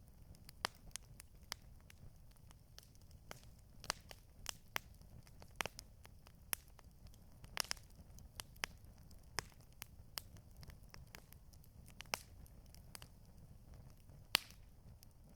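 Campfire crackling: irregular sharp pops and snaps of burning wood, a few each second, over a low steady rumble. The loudest pop comes near the end.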